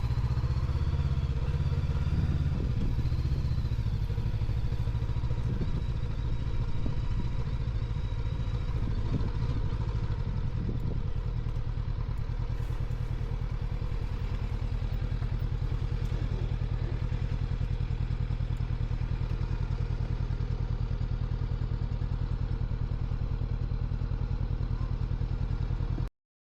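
Honda NX500's parallel-twin engine running, heard from the rider's helmet, with scattered clattering knocks in the first half. From about halfway through the note settles into a steady, even beat, then cuts off abruptly just before the end.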